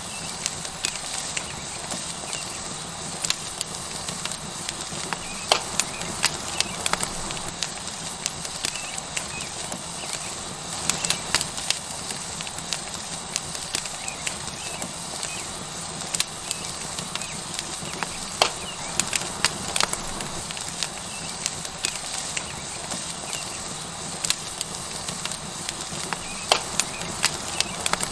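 Tomahawk steak sizzling on a hot rock over a wood fire: a steady hiss with frequent sharp crackles and pops scattered through it.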